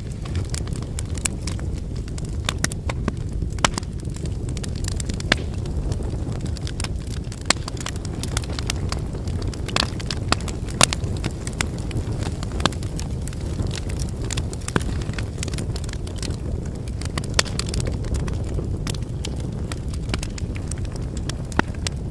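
Wood campfire burning: a steady low rush of flames with frequent, irregular sharp crackles and pops from the burning firewood.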